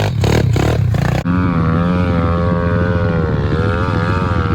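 Small single-cylinder pit bike engine running hard at high revs, its pitch wavering up and down. Before it, a rougher, noisier stretch of engine sound ends in an abrupt cut about a second in.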